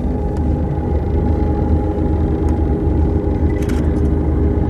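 Tour coach engine and road noise heard from inside the vehicle: a steady low rumble with a constant hum over it.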